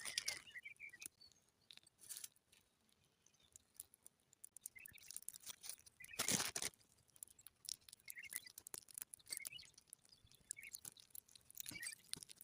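Faint, scattered bird chirps every second or two over soft clicks and crackles, with one louder brief scrape about six seconds in.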